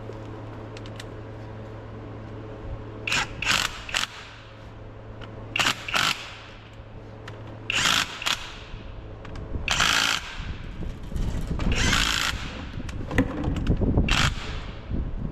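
A power tool run in short bursts, about a dozen times, with a steady low hum underneath.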